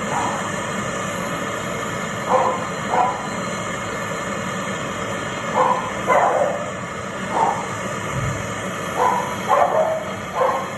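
A dog barking: about nine short barks in loose clusters, over a steady background noise.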